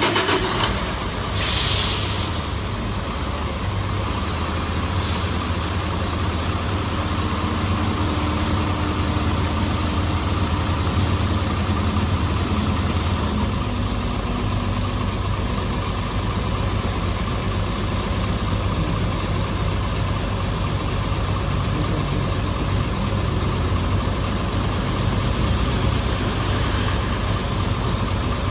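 City bus diesel engine idling just after being started, with a short loud hiss of air about two seconds in and a fainter one a few seconds later. The engine note shifts about a third of the way through and then runs steadily.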